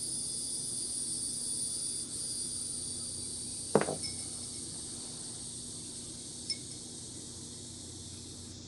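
A glass candle-holder bowl clinking as it is handled: one sharp clink a little under four seconds in and a lighter one about two and a half seconds later, each with a short glassy ring. Underneath is a steady high-pitched hiss.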